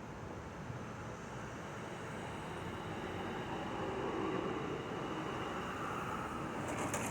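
Thunderstorm outdoors: a steady noisy background with a rumble that builds a few seconds in and then eases.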